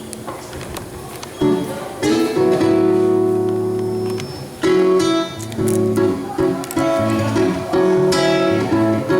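Acoustic guitar chords in a samba rhythm, quiet for the first second and a half, then struck firmly and repeated with a steady pulse: the instrumental opening of the next song.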